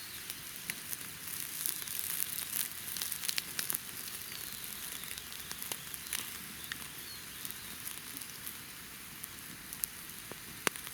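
Campfire crackling, with sausage-and-tomato shashlik skewers sizzling over it: a steady high sizzle broken by scattered sharp pops.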